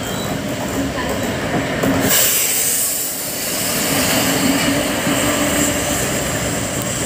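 Indian passenger trains crossing, heard from the open door of one of them: steady wheel and rail rumble, with a loud rushing noise that rises suddenly about two seconds in as the oncoming train's coaches draw alongside. A steady wheel squeal runs through the second half as the train rounds a curve.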